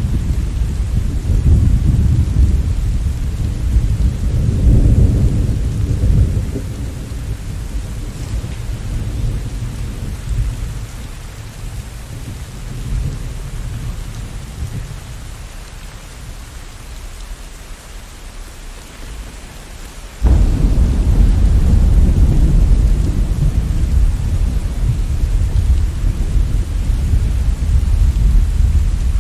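Steady rain with thunder. A long rumble of thunder fades away over the first ten seconds, then a sudden clap about two-thirds of the way through sets off another long rumble.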